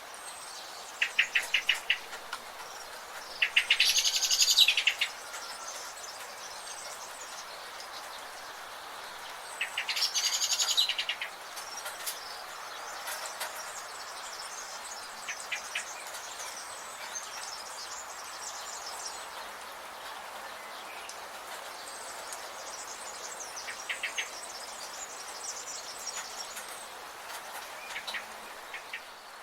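Forest bird chorus. Two loud, fast trilled calls of about a second each come a few seconds in and about ten seconds in, and short quick rattling calls come every several seconds, over a steady background of faint high chirping.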